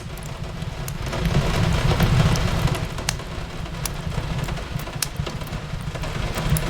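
Steady rain on a window pane over a low rumble, with the sharp crackles and pops of a wood fire in a fireplace coming every second or so.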